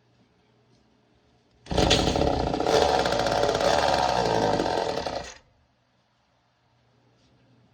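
Early-1970s Poulan-built Craftsman 2.3 chainsaw's two-stroke engine firing up about two seconds in, running loudly for just under four seconds, then cutting out abruptly. This is the old saw coming back to life, but it dies quickly.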